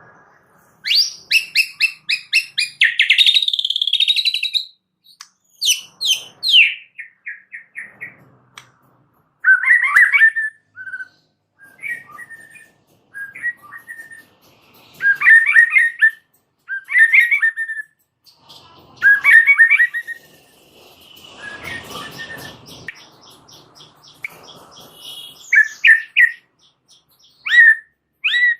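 A white-rumped shama (murai batu) singing in bursts of varied phrases: fast runs of repeated notes, quick rising and falling whistles, and a rougher, scratchy passage about three quarters of the way through. The bird is in full, vigorous song ('gacor').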